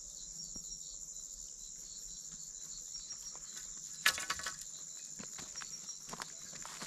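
Steady, high-pitched chorus of insects. A brief sharp crackle comes about four seconds in, followed by a few faint clicks.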